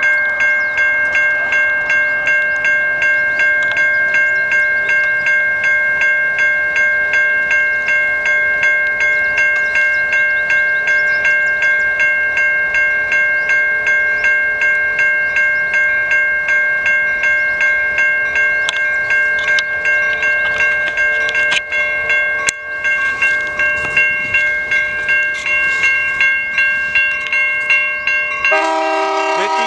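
Railroad grade-crossing bell ringing with steady, rapid, evenly repeated strikes, the warning that a train is approaching. Near the end a train's horn comes in over it.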